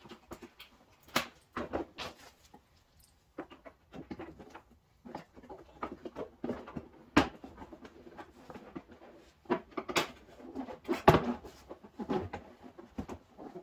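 Plastic push clips being popped out of a plastic inner fender liner, and the liner being worked loose: irregular clicks, knocks and rustling, with a few sharper snaps in the second half.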